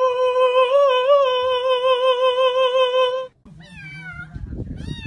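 A cat's long drawn-out yowl held on one pitch with a slight wobble for about three seconds, cutting off suddenly. It is followed by a short meow falling in pitch, and another starts near the end.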